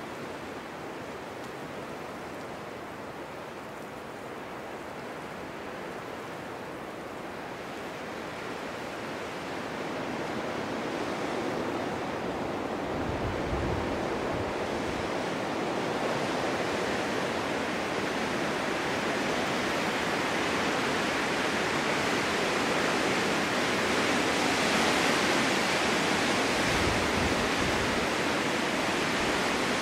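Snowstorm wind blowing in a steady rush that grows stronger about a third of the way in. Twice it gives a brief low rumble as a gust buffets the microphone.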